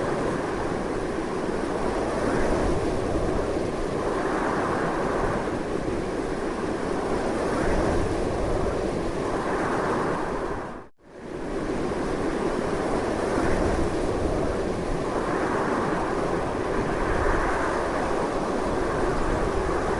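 Strong, continuous wind rushing in slow swells. It cuts out for a moment about halfway through, then comes straight back.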